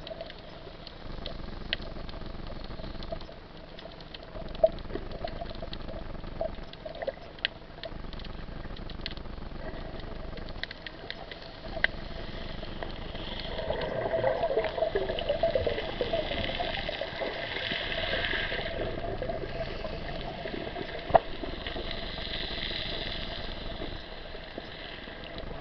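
Water rushing and splashing, swelling louder about halfway through, with scattered sharp clicks.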